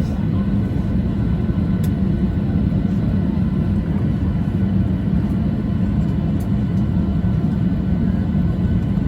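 Steady low rumble inside a jet airliner's cabin on the ground after landing, with engine and air-system noise and a few faint ticks.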